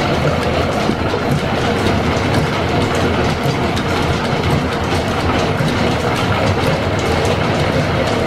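Steady, loud mechanical running noise with a continuous fine clatter.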